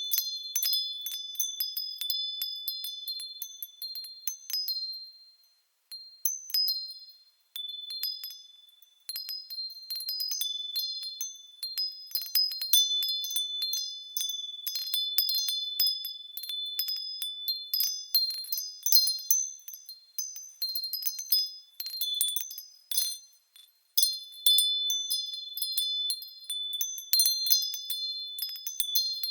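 Japanese furin wind chimes tinkling in the breeze, struck over and over in irregular clusters that ring on a few high, clear tones. The ringing dies away to near silence briefly a few times, about five, eight and twenty-three seconds in.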